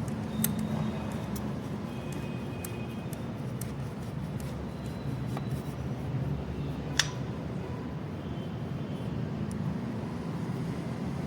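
Steady low hum of a workshop with scattered light clicks of tools and parts being handled, and one sharp clink about seven seconds in.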